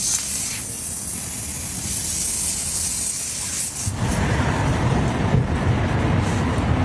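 A loud, steady high-pitched hiss that stops abruptly about four seconds in, giving way to a lower, rougher rumbling noise.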